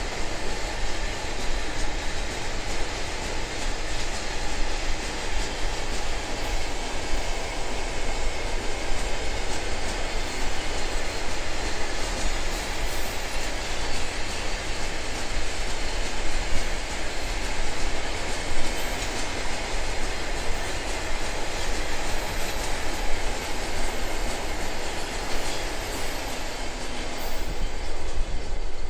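Freight train wagons rolling past at close range: a steady rumble of steel wheels on the rails, with clacking over the rail joints.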